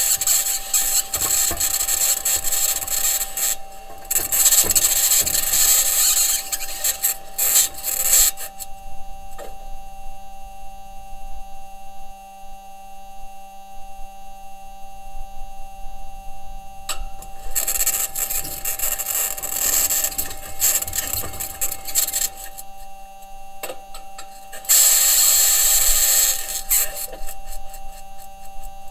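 Perseverance Mars rover driving: its wheels and suspension grinding over the ground with a high-pitched scraping noise, in three stretches (a long one at the start, another past the middle, a short one near the end) separated by quieter gaps. A steady electrical hum with several fixed tones runs underneath.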